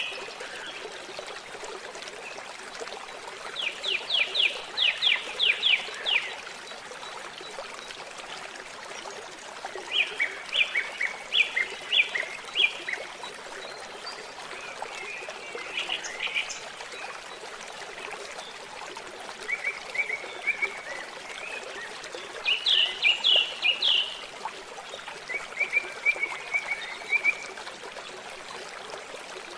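A songbird singing short trilled phrases, each a quick run of notes, repeated every few seconds over a steady trickle of water.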